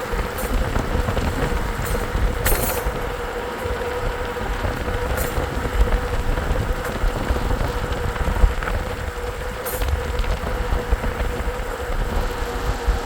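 Noise of riding along: heavy wind rumble on the microphone and road noise, with a steady mid-pitched whine throughout and a few short sharp ticks.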